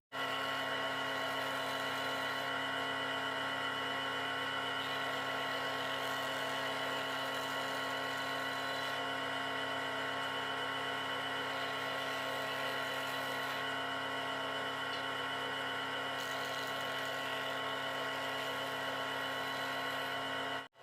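A steady machine hum with a whine of several fixed tones, unchanging throughout, starting and stopping abruptly.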